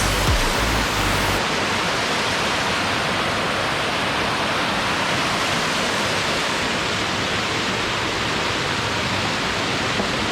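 Waterfall pouring, a steady unbroken rush of water. Low background music tones cut off about a second and a half in.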